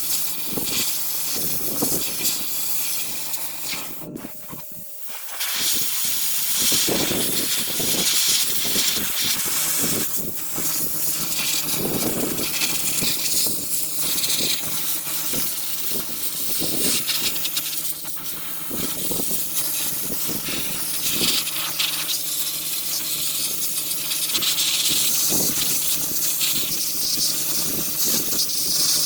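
Sandblaster hissing loudly and steadily as abrasive is blasted onto a rusty truck frame, over a steady low hum. The blast cuts out briefly about four seconds in, then resumes.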